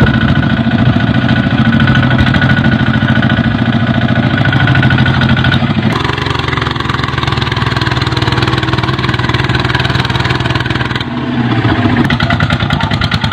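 Kubota tractor's diesel engine running steadily with a fast, even beat. The engine note shifts abruptly about six seconds in and again about eleven seconds in.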